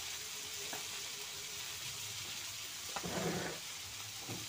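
Pieces of tongkol tuna with petai beans and spices frying in a wok over a gas flame, a steady sizzle. A brief louder sound about three seconds in.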